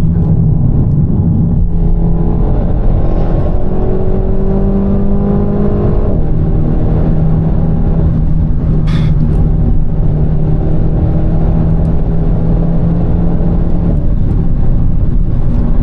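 Renault Mégane RS Trophy's 1.8-litre turbo four-cylinder engine and road noise while driving. The engine note shifts in pitch over the first few seconds, then holds steady, with one short click about nine seconds in.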